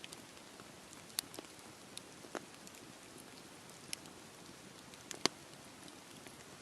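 Campfire burning in steady rain: an even patter of rain with the fire crackling, and a few sharp pops, the loudest about five seconds in.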